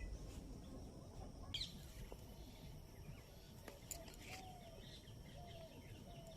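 A few faint, scattered bird chirps over a steady low background rumble.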